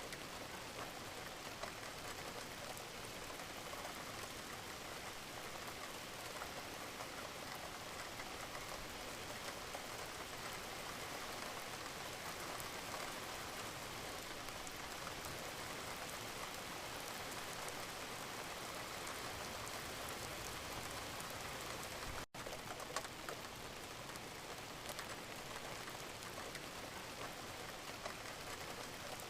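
Gentle rain falling steadily, a dense even patter of small drops. The sound cuts out for an instant about three quarters of the way through.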